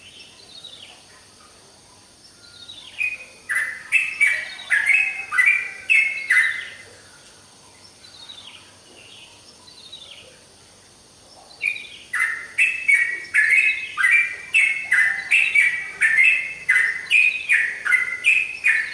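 Yellow-vented bulbul (trucukan) singing: two long runs of quick, repeated falling notes, the second starting about twelve seconds in, with softer falling notes between them.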